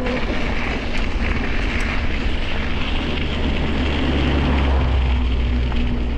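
Wind buffeting the microphone of a camera carried on a moving bicycle, a loud steady rush with deep rumble, with rolling noise underneath.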